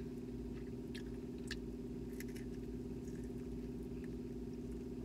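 Someone chewing battered cod, with scattered soft mouth and lip clicks and finger-licking, over a steady low hum.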